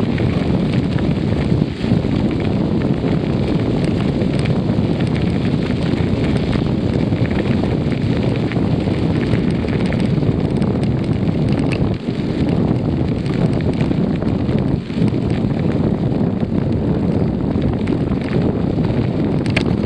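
Wind buffeting the microphone of a camera riding along on a moving bicycle: a loud, steady, low rumble that barely lets up.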